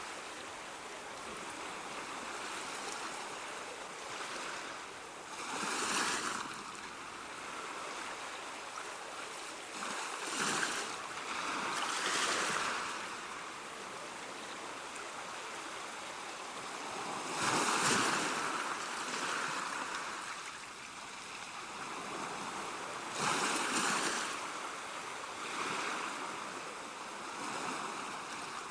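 Ocean waves breaking and washing on a shore: a steady hiss of surf with a swell every few seconds, the loudest about two-thirds of the way through.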